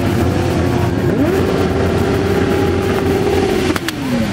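A group of motorcycles riding by with engines running. About a second in, one engine revs up, holds its revs for a couple of seconds, then drops back near the end.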